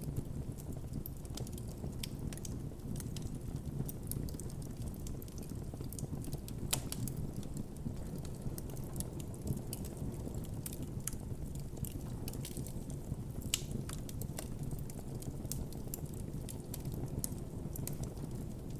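Campfire burning: a steady low rumble of the flames with frequent sharp, irregular crackles and pops from the burning wood, a few louder pops scattered through.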